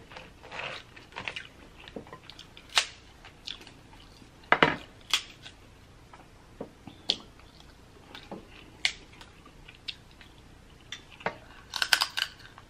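Close-miked chewing and mouth smacks of someone eating seafood-boil pieces dipped in butter sauce, heard as scattered sharp clicks and wet smacks, loudest about a third of the way in and in a cluster near the end.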